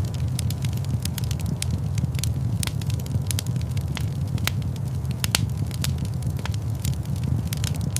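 Log fire crackling in a fireplace, with frequent irregular sharp pops and snaps over a steady low rumble.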